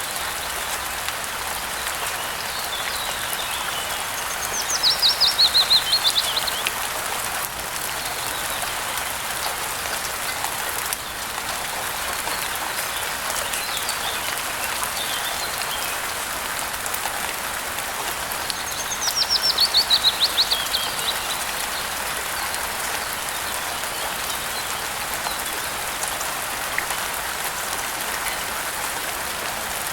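Steady rain falling, with a songbird singing twice, each song a rapid trill of high notes dropping in pitch over about two seconds, and fainter chirps in between.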